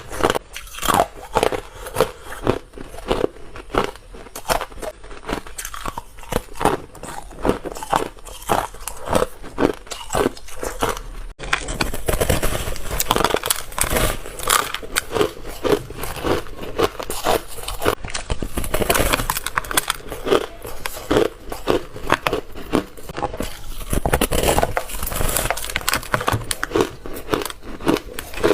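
Ice being bitten and crunched between the teeth, close to the microphone: a run of crisp crunches about two a second. About eleven seconds in the crunching becomes denser and more continuous.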